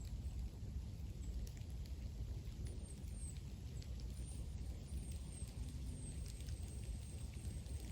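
Light rain in a forest: scattered raindrops ticking on leaves and the ground, over a steady low rumble.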